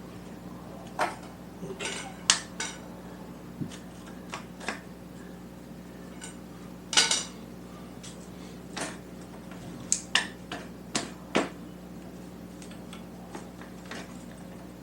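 Intermittent metallic clinks and knocks of tools and engine-mount hardware being handled during a motorcycle engine swap, about a dozen sharp ones, the loudest about two seconds in and about seven seconds in.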